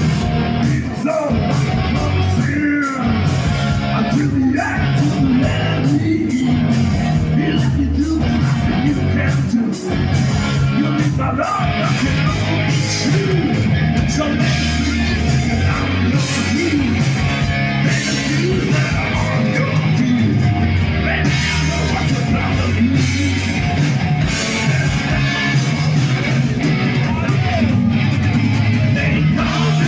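Live hard rock band playing at full volume: distorted electric guitar, bass and a steady drum and cymbal beat, with a singer's voice over it.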